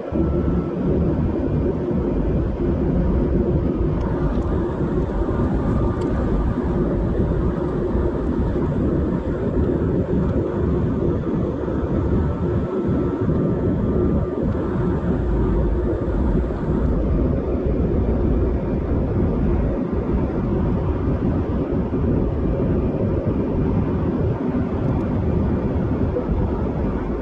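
Steady cabin noise of an airliner in flight: the constant rumble of engines and rushing air, with a faint steady hum over it.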